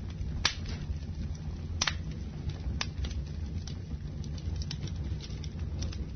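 Campfire crackling: sharp pops and snaps of burning wood over a steady low rumble, the loudest about half a second in and just before two seconds.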